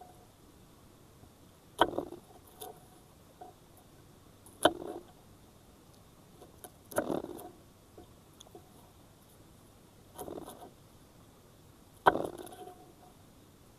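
Five separate sharp knocks, each followed by a brief clatter, spaced a couple of seconds apart over a faint steady hiss.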